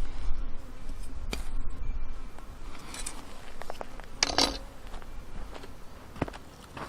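A few separate sharp knocks and short scraping bursts, about one, three and four and a half seconds in, over a low rumble, typical of a blade and firewood being handled and struck while splitting wood.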